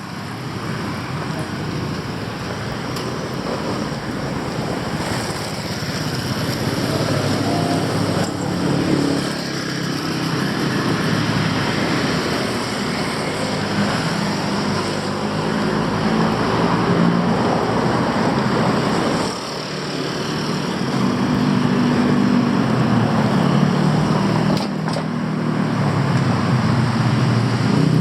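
Busy city street traffic: a steady mix of motorbike and car engines running past, with a nearer engine growing louder in the second half.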